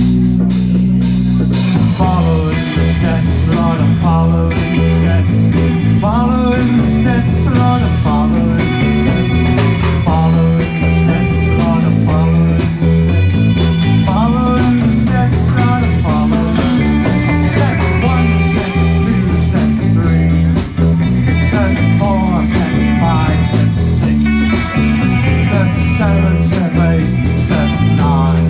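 Live rock band playing an instrumental passage: electric lead guitar with bending notes over a steady bass line and drums. The bass line changes about two seconds in.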